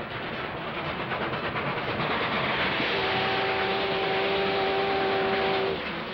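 Cartoon steam-train sound effect: a continuous chugging noise, with a steady chord-like whistle that sounds about halfway through and is held for nearly three seconds before cutting off.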